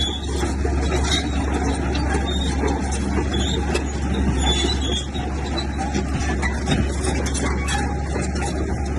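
Bulldozer's diesel engine running steadily, with scattered clanks and clicks from its tracks and the stones.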